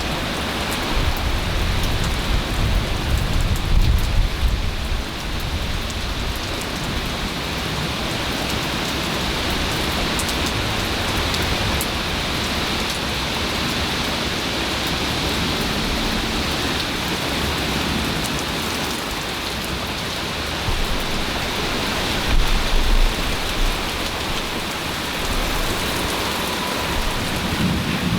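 Heavy rain falling steadily during a severe thunderstorm, with low rumbles of thunder in the first few seconds and again a little past two-thirds of the way through.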